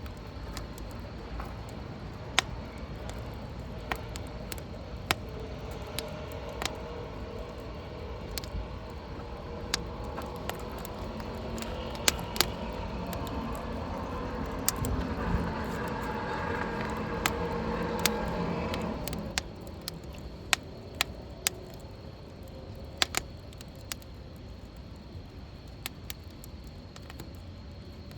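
Wood fire crackling in a fire pit, with sharp pops every second or two. A low drone swells from about ten seconds in and cuts off suddenly about nine seconds later.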